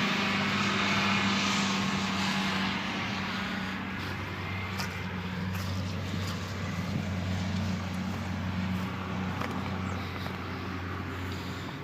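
A vehicle passing by, its rushing noise swelling about a second in and then fading, over a steady low engine hum.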